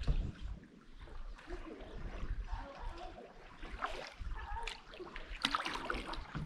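Kayak paddle dipping and water trickling and dripping off it, with a louder splash about five and a half seconds in, over a low rumble.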